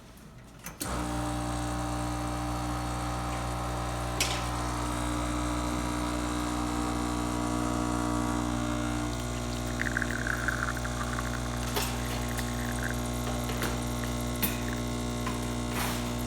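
Expobar espresso machine's pump switching on about a second in and humming steadily while pulling a shot at a little over 9 bar, with a few light clicks and a brief trickle partway through.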